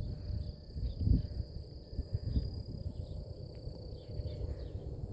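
Outdoor background: a low rumble of wind on the microphone, with a faint steady high-pitched tone and a few soft ticks.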